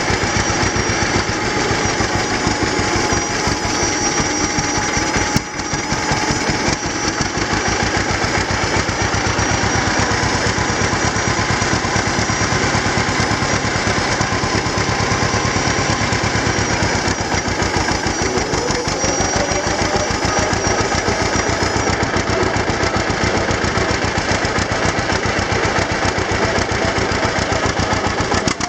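A styled John Deere G tractor's two-cylinder engine running steadily, with the rapid, even beat of its firing strokes. The sound dips briefly about five seconds in.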